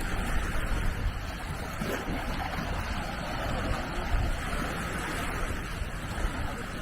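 Gentle Mediterranean waves washing steadily on the shore, with wind rumbling on the microphone.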